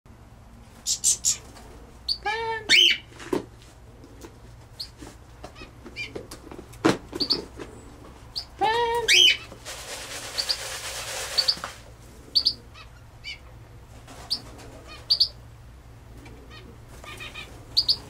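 Birds chirping and calling: many short high chirps and a few harsher pitched calls, three of them a second or more apart, with a hiss lasting about two seconds midway.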